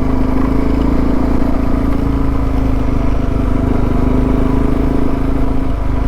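Suzuki DR650's single-cylinder four-stroke engine running at a steady pitch.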